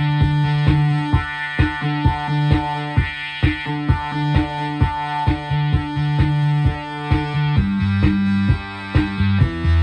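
Korg MS-20 analog synthesizer playing a buzzy sustained note rich in overtones, with sharp percussive clicks repeating about three times a second. The bass pitch changes about three-quarters of the way through.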